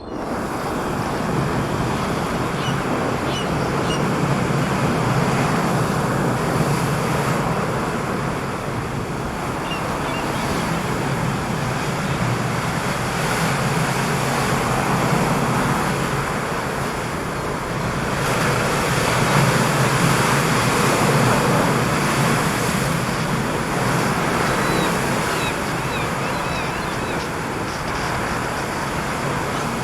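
Strong wind and churning ocean surf: a continuous rushing roar that swells and eases, loudest about two-thirds of the way through, with a few faint high chirps.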